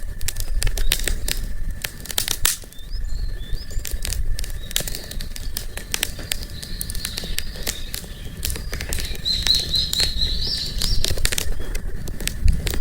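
Wood fire crackling, with frequent sharp pops and snaps. A bird chirps in a quick run of high notes about three-quarters of the way through, over a low steady rumble.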